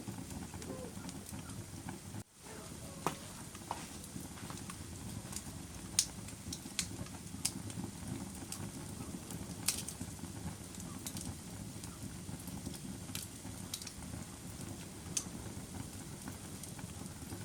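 Wood fire burning in a fireplace: a steady low rumble of flames with sharp crackles and pops scattered irregularly, and a momentary dip in the sound about two seconds in.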